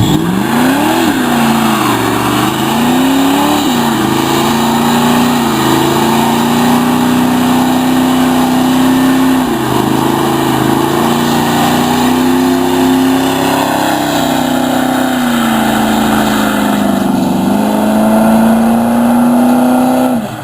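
A muscle car's engine revving. It swings up and down in pitch for the first few seconds, then holds a steady high speed. It dips briefly about halfway through, sags and climbs again near the end, and cuts off abruptly.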